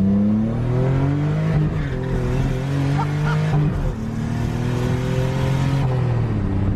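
Nissan 300ZX's V6 engine accelerating hard, revs climbing steadily, then dropping sharply at an upshift about four seconds in and climbing again; the driver backs off near the end.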